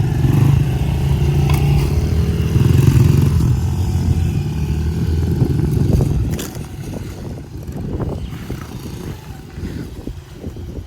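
Small four-stroke single-cylinder dirt bike engine running close by at steady low speed, then dropping away about six seconds in, leaving a fainter, rougher engine sound.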